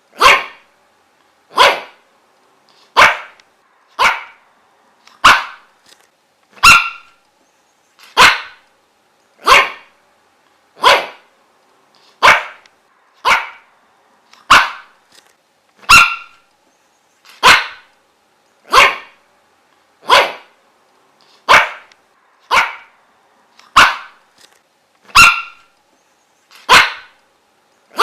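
A dog barking single sharp barks at an even, unbroken pace, one a little more than a second after the other.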